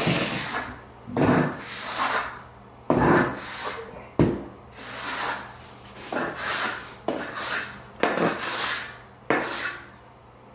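Float scraping in repeated strokes across dry-pack shower pan mortar as the mortar bed is smoothed and its low spots worked flat. The strokes come about once a second, several with a sharp start.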